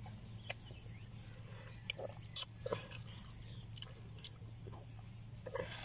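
Watermelon being bitten and chewed: scattered short wet crunches and smacks, the loudest about two and a half seconds in, over a steady low hum.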